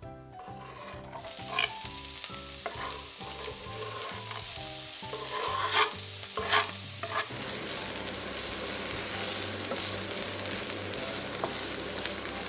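Finely chopped onions sizzling as they fry in a pan, starting about a second in, with a few clicks of a utensil stirring them.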